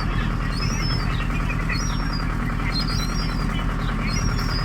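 Young gulls giving repeated high, thin begging calls, each a short whistle that rises and falls, coming about once or twice a second. A steady low rumble runs underneath.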